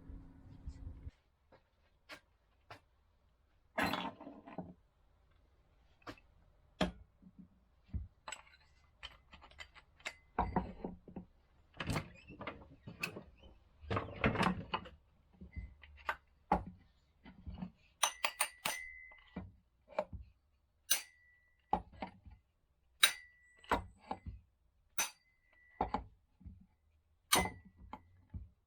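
Workbench handling noises: scattered clicks and knocks of tools and small metal parts being picked up and set down. In the last ten seconds come about five sharp metallic clinks, roughly two seconds apart, each ringing briefly.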